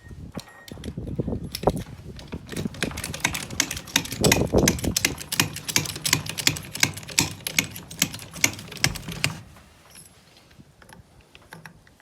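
Rapid, even metallic clicking, about three clicks a second over a low rumble, from hand-tool work on a semi-trailer's bent landing-gear leg; it stops abruptly about nine seconds in.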